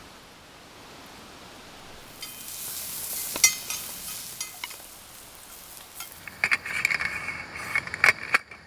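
Food sizzling in a hot pan, louder from about two seconds in, with metal cookware clinking and scraping, most of it near the end.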